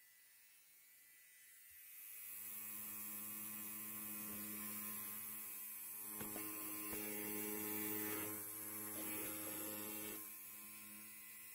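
Electric hair clipper buzzing, switching on about two seconds in. In the middle it is run through hair, its buzz wavering with scratchy crackles, and it settles again near the end.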